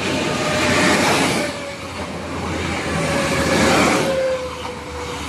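Trenitalia Jazz electric regional train approaching and running close past: a loud rush of wheel and running noise that swells twice, with a steady tone that slides slightly down in pitch.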